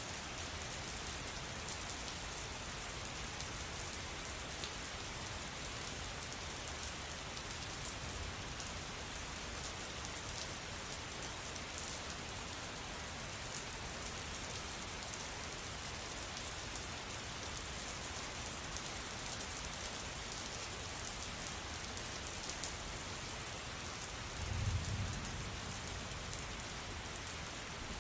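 Steady rain falling, an even hiss with many small drops ticking through it. About three seconds before the end a brief low rumble rises and fades.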